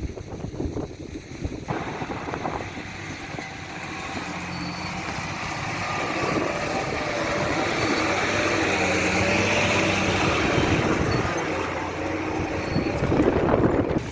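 A road vehicle passing: a steady engine hum under tyre and wind noise that slowly grows louder, peaks a little past the middle, then eases off.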